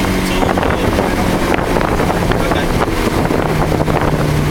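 Car engine running at track speed, heard from inside the car over heavy wind and road noise. Its steady note fades about half a second in and comes back slightly lower near the end.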